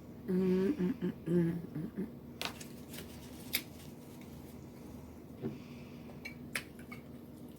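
A short wordless hum from a woman, "mmm" in two or three pulses, while she eats. Then a few scattered light clicks and taps of eating and utensils at the plate, over a steady low hum in the room.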